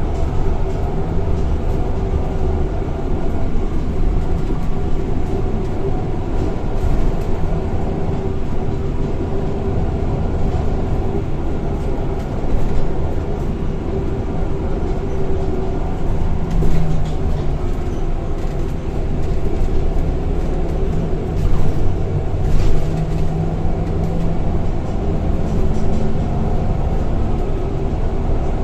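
Scania K230 single-decker bus on the move, heard from inside the saloon: a steady low engine and transmission rumble whose note changes a few times as the ZF automatic gearbox works through the gears. Short rattles and knocks from the bodywork come through now and then.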